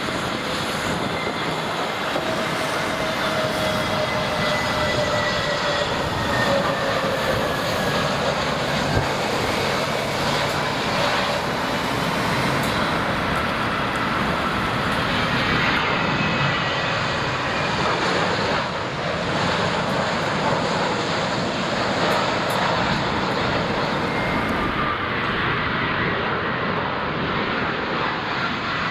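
Jet airliner engines passing close by: a loud, steady rushing noise with thin whining tones that slowly fall in pitch.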